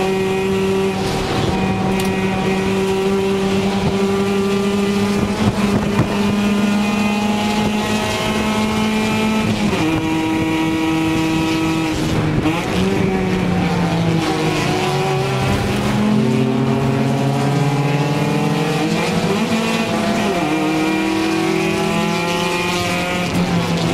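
Race car engine heard from inside the cabin, running hard at a steady pitch for about ten seconds, then dropping in pitch and climbing again several times as the driver shifts gear and accelerates.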